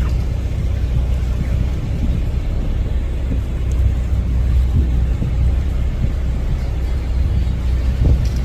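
Tour boat's engine running steadily underway, a loud low rumble.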